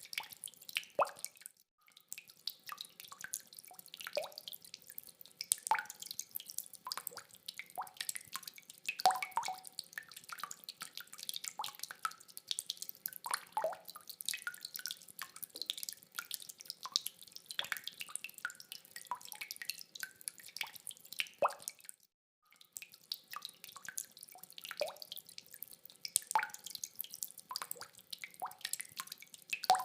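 Rainwater dripping: separate drops falling irregularly, several a second, with no thunder. The sound cuts out briefly twice, about two seconds in and past the twenty-second mark.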